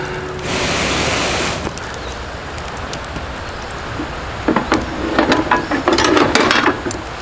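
A brief hiss, then a quick run of clicks and rattles, like hard objects being handled and knocked together, about four and a half seconds in.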